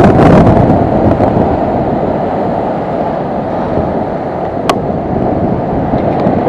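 Strong wind buffeting the microphone in a loud, steady rumble, over a rough sea surging at high tide.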